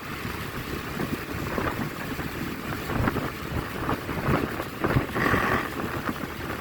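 Wind buffeting the microphone while riding along a road, over a low, steady rumble of vehicle and road noise, with a brief higher sound about five seconds in.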